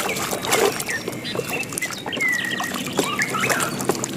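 A hand sloshing and scrubbing a toy in a basin of thick, foamy muddy water: wet squelching and splashing, with short high squeaks.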